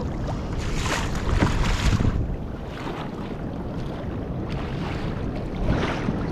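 Water swishing and lapping against a kayak hull, with wind rumbling on the microphone; the swishing swells about a second in and again near the end.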